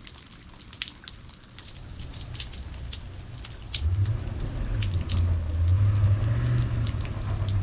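Freezing rain falling hard, with scattered sharp drop ticks. About four seconds in, a truck engine's low hum comes up and keeps running louder as the truck struggles to get through the icy slush.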